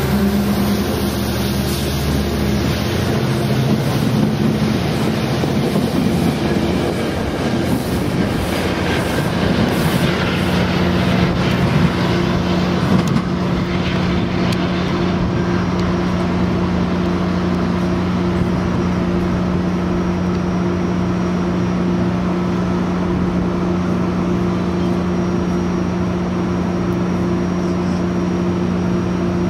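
A diesel-hauled passenger train at a station. For the first dozen seconds the wheels clatter and knock over the rails, and from there on a locomotive engine runs with a steady, unchanging hum.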